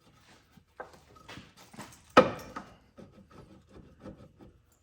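Irregular clicks, knocks and rubbing as a bolt is worked into the lower control arm's mounting holes and the arm is shifted to line them up, with one sharp knock a little over two seconds in.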